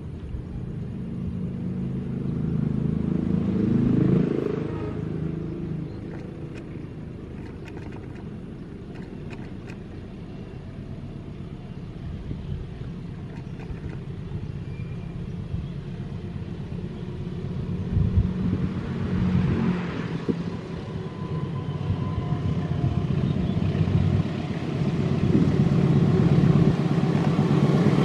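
Motor vehicles passing by one after another, each engine swelling and falling in pitch as it goes past, about four seconds in and again near twenty seconds, over a steady rumble. A louder engine builds up near the end.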